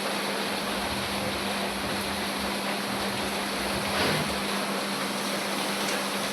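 Heavy rain falling, a steady hiss, with a steady low hum under it and a brief louder rush about four seconds in.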